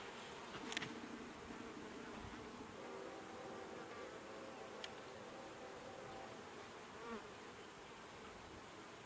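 Honeybees buzzing around an opened Langstroth hive during an inspection, a steady hum of many bees, with two sharp clicks, one about a second in and another about five seconds in.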